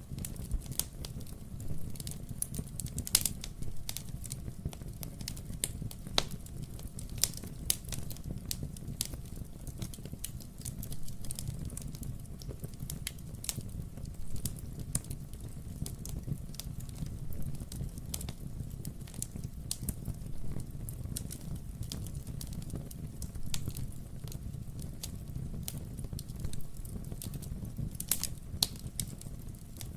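Wood fire burning in a fireplace: a steady low rumble of flame under frequent crackles and sharp pops from the burning logs, with a few louder pops scattered through.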